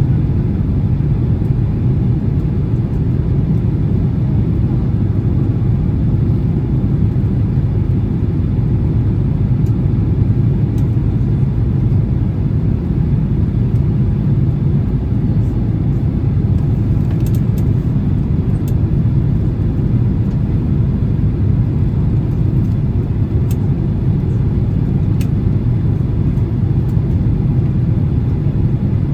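Steady low cabin rumble of a Boeing 767-300 in flight, engine and airflow noise heard from inside the passenger cabin, with a few faint clicks and rattles.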